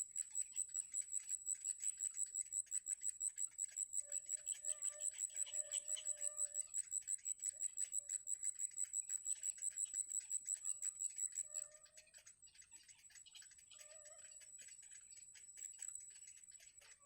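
A steady high-pitched pulsing trill, about five pulses a second, that stops about twelve seconds in, with short mewing animal calls several times over it.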